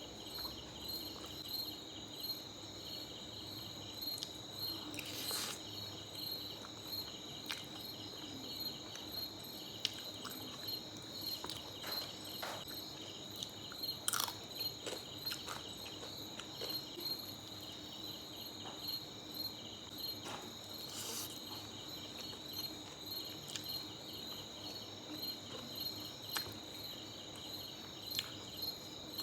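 Crickets chirping in a steady, fast, even trill, with scattered clicks, slurps and chewing of someone eating spaghetti; the loudest eating sounds come about five, fourteen and twenty-one seconds in.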